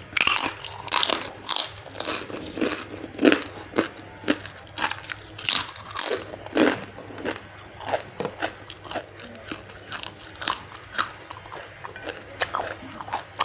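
Close-miked crunching as fried papad is bitten and chewed: sharp, crisp crunches roughly every half second, growing softer in the second half as the pieces break down.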